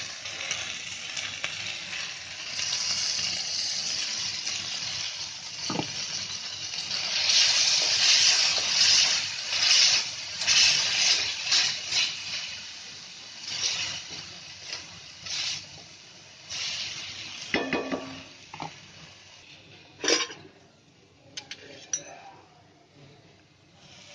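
Tomato paste sizzling in hot oil in a cast-iron tawa as it is stirred with a wooden spatula; the sizzle surges in waves midway, then dies down. Near the end come a few sharp clinks of steel dishes.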